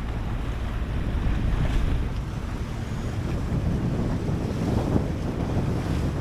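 Strong wind buffeting the microphone over choppy open water, with waves washing around the boat.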